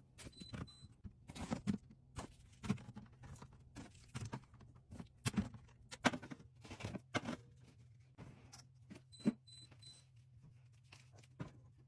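Irregular light clicks and knocks of containers and items being handled and set down, over a steady low hum.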